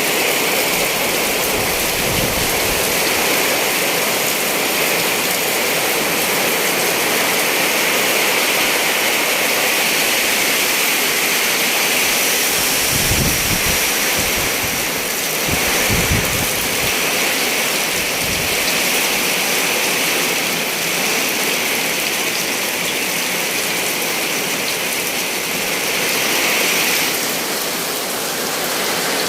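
Heavy rain falling steadily in a dense hiss, with strong wind gusting a few times, heard as low rumbling surges around the middle.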